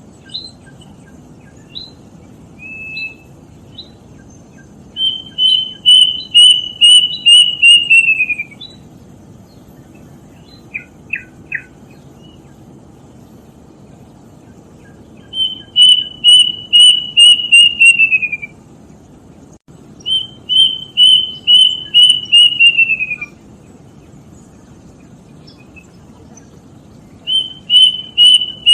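Plaintive cuckoo (kedasih) singing: three full phrases of about eight clear whistled notes, each lasting about three seconds and sliding down in pitch at the end, with the start of a fourth phrase near the end and a few short single notes in between.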